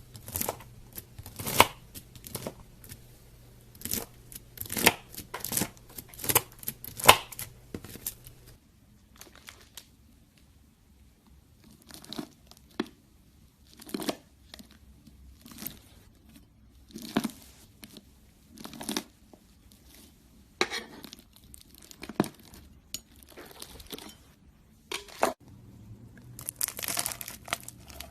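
A knife cutting and pressing into crunchy slime, giving crackling, crunching bursts about once a second with short pauses between them. A faint background hum drops out about 8 seconds in and returns near the end.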